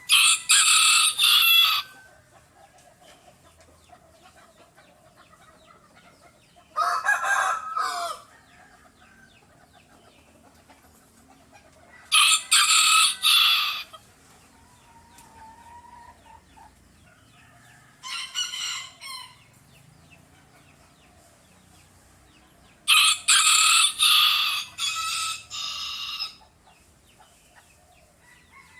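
Roosters crowing: five loud crows spaced about five to six seconds apart, with faint chicken clucking between them.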